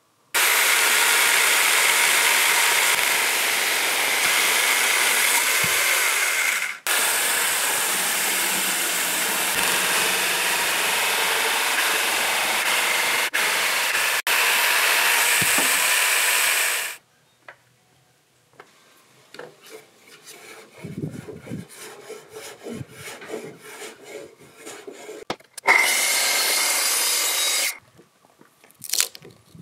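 A plunge-cut track saw runs along a guide rail, cutting a series of close, parallel kerfs into an oak beam. It saws steadily for about sixteen seconds with a brief break near seven seconds, then gives way to irregular knocks and cracks as a chisel breaks out the thin slices of waste. The saw makes another short pass of about two seconds near the end.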